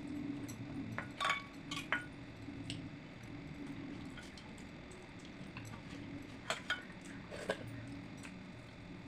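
Eating at a plate: a few sharp clinks and taps of dishware, a cluster about a second in and another near the end, over a steady low hum.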